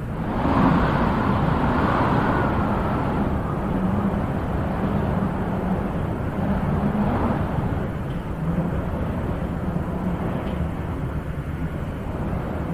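Wind blowing steadily in gusts, a low rushing noise that swells about half a second in and then holds roughly level.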